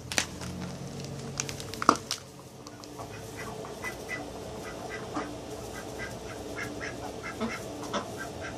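Indian Runner ducks giving many short, soft quacks, overlapping calls throughout. Two sharp knocks in the first two seconds, the second the loudest sound.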